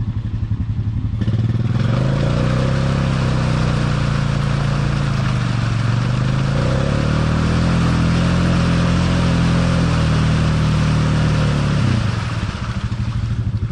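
ATV engine revving up about a second and a half in and held at high revs under load for about ten seconds, then easing off near the end. The quad is straining to pull out of a deep mud rut it is bottomed out in.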